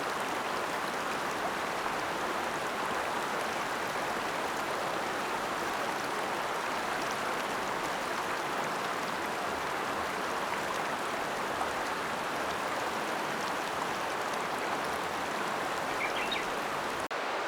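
Ōta River flowing over rocks, a steady rushing of water. A few faint, short high chirps sound near the end, and the sound drops out for a moment just before the end.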